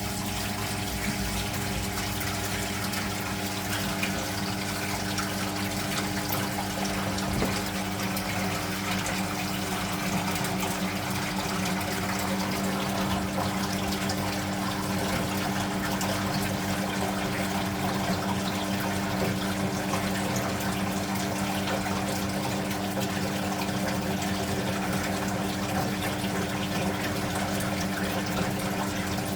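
Speed Queen top-loading washing machine running with water rushing steadily through it over a steady motor hum.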